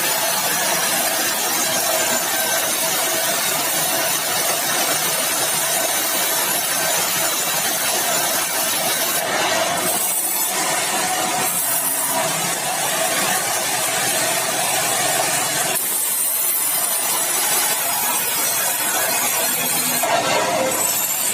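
Sawmill saw running and sawing meranti batu timber: a loud, steady mechanical noise with a constant whine. The sound changes abruptly about ten, sixteen and twenty seconds in.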